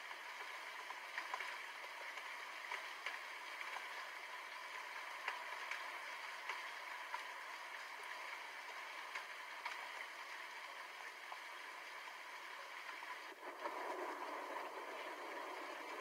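Steady rainfall: an even hiss with scattered sharp drop ticks. The hiss drops out briefly about thirteen seconds in and comes back a little louder.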